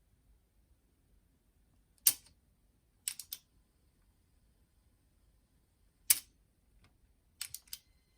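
Cassette deck transport keys on a JC Penney boombox clicking as they are worked to test the deck after a belt replacement: a sharp clack about two seconds in followed by a quick run of three lighter clicks, then the same pattern again about six seconds in.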